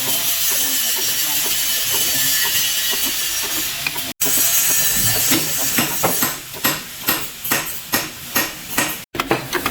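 A steady hiss for about four seconds, then, after a sudden break, a run of quick knocks and clinks of tools on metal during work on a vehicle's differential.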